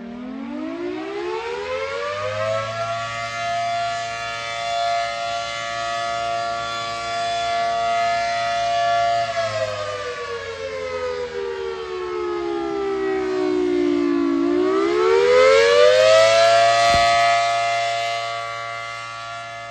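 Large mechanical outdoor warning (tornado) siren winding up to a steady high pitch, holding it for several seconds, then slowly winding down. It winds back up about 14 seconds in, with a short click about 17 seconds in, and starts to fall again near the end.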